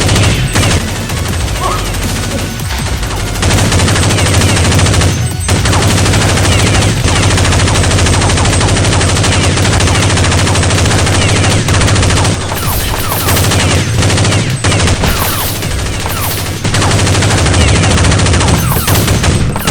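Sustained rapid automatic gunfire in dense, overlapping volleys, with a short break about five seconds in. It is a movie-style firearm sound effect standing in for the Nerf blasters.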